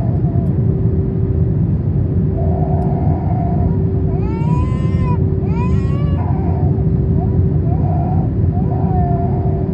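Steady cabin roar of an Airbus A321 airliner in descent, engine and airflow noise with a constant hum. Over it a small child cries and whimpers in several short rising-and-falling wails, the loudest two about halfway through.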